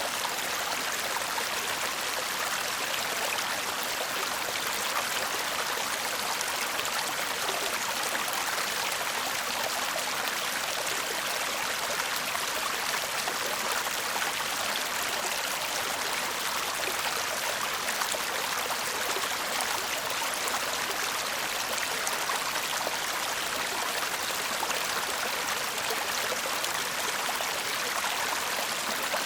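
Shallow stream babbling steadily over stones, an even rush of water without breaks.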